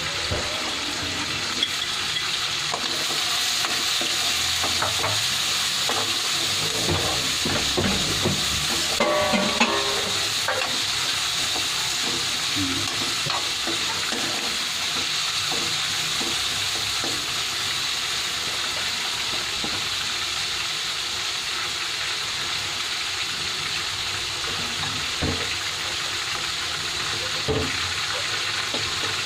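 Pork and chopped tomato sizzling steadily in a wok over a gas burner, with a metal ladle scraping and clicking against the pan as they are stirred, mostly in the first ten seconds. Two short knocks come near the end.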